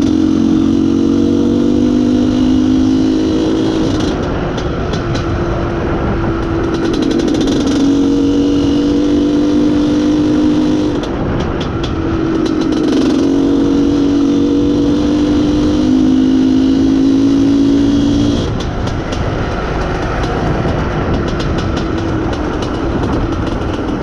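IZh Planeta Sport motorcycle's single-cylinder two-stroke engine running under way, its note holding steady and climbing slightly, breaking off and picking up again three times, with a steady rush of wind and road noise.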